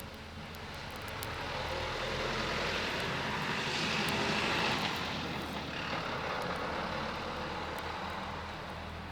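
Distant engine drone passing by, swelling to a peak about halfway through and then fading away, with a few faint crackles.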